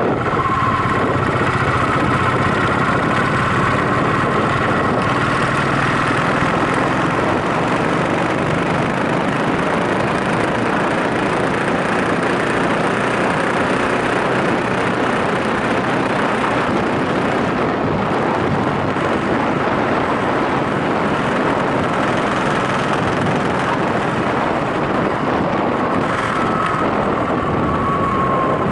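Yamaha SRX4's single-cylinder four-stroke engine running while riding, mixed with steady wind and road rush. A faint pitched whine shifts in pitch near the start and again near the end.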